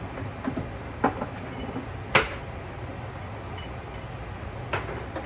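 Seasoning containers clinking and knocking as they are handled and set down: four short knocks, the loudest about two seconds in, over a steady low hum.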